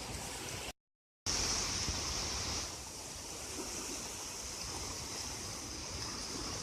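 Sea waves washing against a pier, a steady rushing noise. About a second in the sound cuts out completely for half a second, comes back louder and hissier for a moment, then settles.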